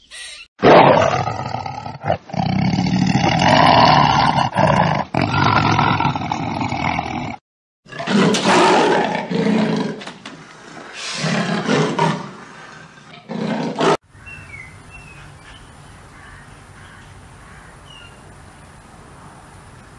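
Lion roaring: a long, loud stretch of roaring, then a series of shorter roars with brief gaps between them, cutting off suddenly about two-thirds of the way through. After that there is only a quiet outdoor background with a few faint chirps.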